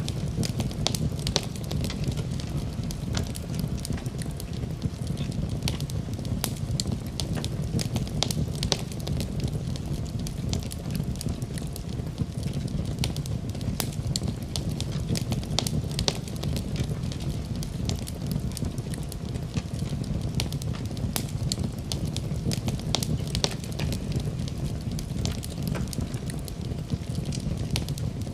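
Wood fire burning in a fireplace: a steady low rumble of the flames with many small irregular crackles and pops.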